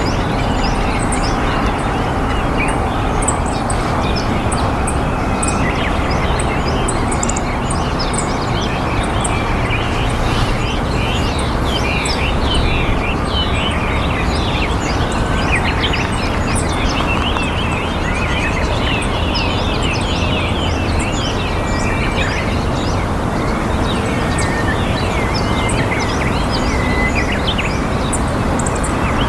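Many small birds chirping in short, rapid calls over a steady low background rumble, the chirping thickest in the middle of the stretch.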